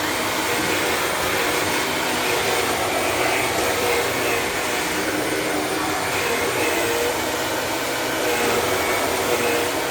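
Shark Navigator Lift-Away Pro upright vacuum running steadily on a long-pile shag carpet, its motor whine wavering slightly as the motorized brush roll pulls at the long carpet fibres.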